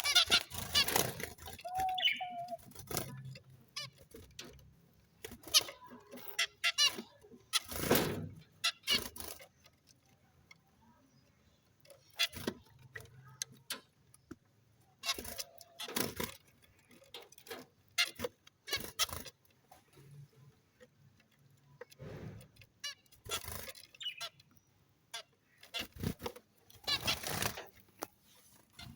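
Small pet parrots giving short, shrill chirps and screeches at irregular intervals, some in quick clusters, with quieter gaps between.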